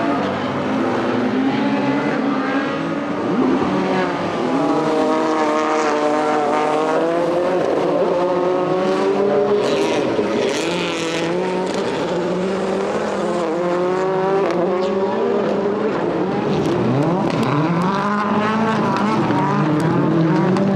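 Rallycross Supercars' turbocharged four-cylinder engines racing, several cars overlapping, their pitch rising and falling as they accelerate, lift and change gear.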